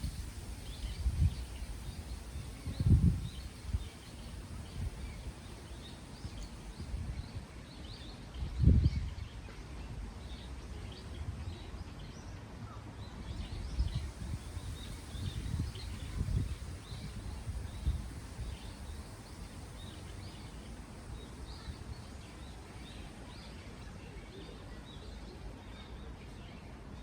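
Wind in the trees, with several low gusts buffeting the microphone that are the loudest sounds, under many short high bird chirps that keep coming throughout.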